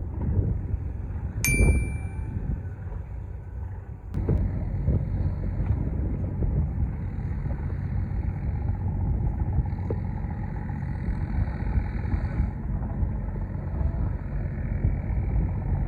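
Low, steady rumble of wind and boat traffic on a river, with one short, ringing metallic ding about a second and a half in.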